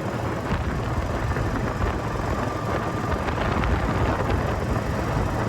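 An engine running steadily, a low drone that holds the same speed throughout.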